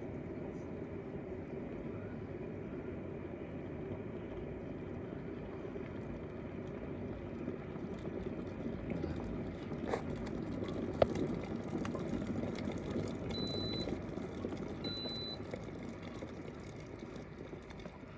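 Hanabishi cordless electric kettle with one litre of water at the boil: a steady low rumble that swells, a sharp click about two-thirds of the way through, then two short high beeps. After the beeps the rumble slowly dies away as the kettle finishes boiling.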